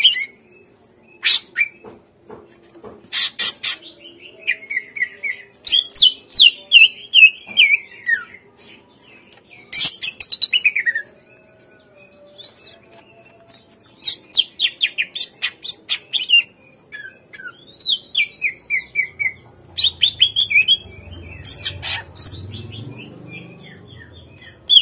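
Cucak ijo (green leafbird) singing in fast, chattering phrases of quick downward-sliding whistled notes and sharp clicks, with short pauses between phrases.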